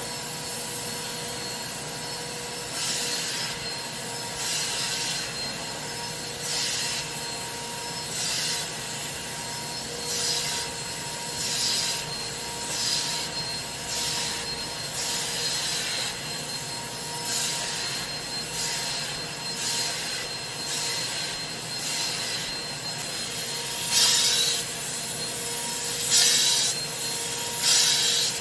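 Carpet cleaning machine running with a steady motor hum, while repeated rasping strokes come about every one and a half to two seconds.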